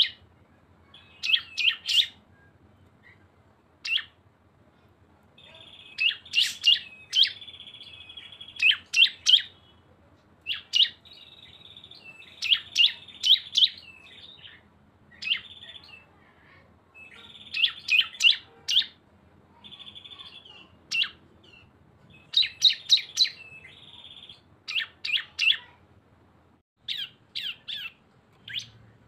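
Cisem and ciblek (bar-winged prinia) songbirds singing in the fast 'bren' style. Clusters of sharp, high chirps, several a second, alternate with short buzzing trills of about a second, with brief pauses between phrases.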